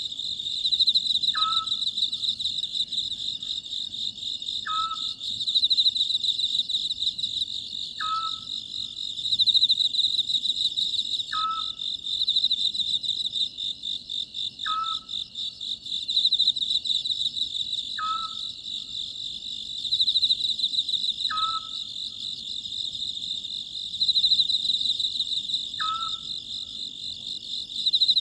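Oriental scops owl calling, one short note about every three and a half seconds, over a steady, pulsing chorus of chirring insects.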